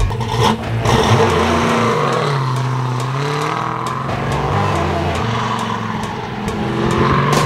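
Classic Ford Mustang's engine running and pulling away under throttle, its pitch falling and rising in the first few seconds before settling into a steady drone.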